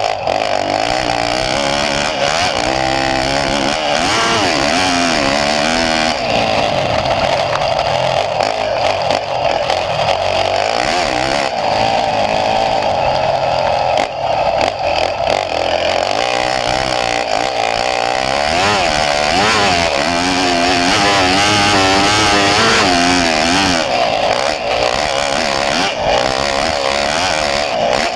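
Motocross dirt bike engine revving hard and continuously as it is ridden, its pitch repeatedly climbing and dropping with the throttle and gear changes.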